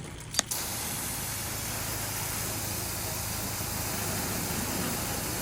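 Pressure washer running: a steady engine hum, then a sharp click about half a second in and the loud, steady hiss of the high-pressure spray.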